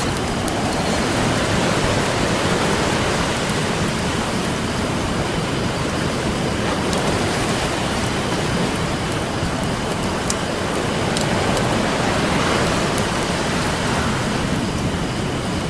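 Ocean surf washing ashore in a steady hiss that swells and eases twice, with a few sharp pops from a crackling wood campfire scattered through it.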